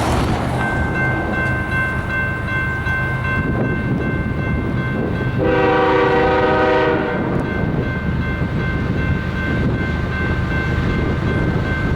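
BNSF freight locomotives' diesel engines rumble steadily as the train approaches, with a steady high ringing from the level-crossing bell. About five and a half seconds in, the lead GE ES44AC sounds one long horn blast of about a second and a half.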